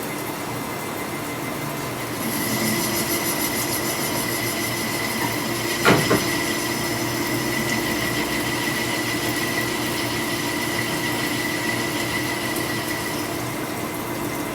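Portable line boring machine running, with a steady metallic whine. Higher-pitched tones join about two seconds in and fade near the end, and a sharp knock comes about six seconds in.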